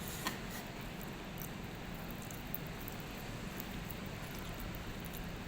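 Faint eating sounds, a few small clicks and chewing noises, over a steady background hum.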